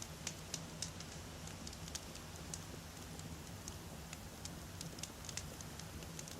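Wood fire burning, with many irregular sharp crackles and pops from the burning logs over a low steady rumble.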